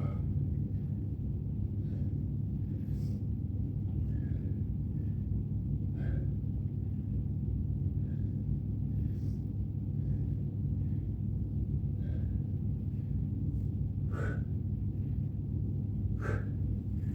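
A person breathing hard in exertion during a workout, with sharp exhales about every three seconds that come faster and louder near the end, over a steady low rumble.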